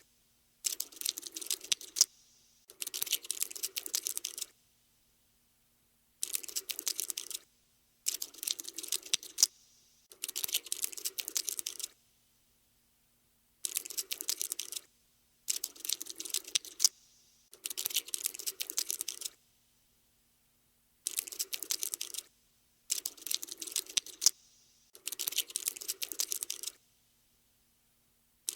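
Cockroach scuttling sound effect: bursts of rapid, dry clicking and scratching, each a second or two long, about eleven of them separated by short silences.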